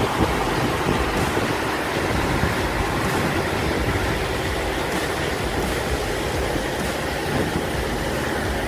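Power saw machinery running and cutting wood, a loud, steady, dense mechanical noise with a low engine drone underneath.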